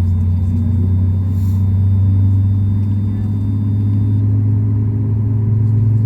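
Steady low drone inside the cabin of a Boeing 737 MAX 8 on the ground, the hum of the airliner's engines and air systems heard from a window seat.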